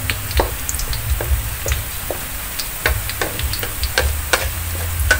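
Sliced shallots frying in oil in a steel wok, still pale and early in the frying: a steady sizzle with scattered sharp pops and crackles as they are stirred with a wooden spatula, over a low steady hum.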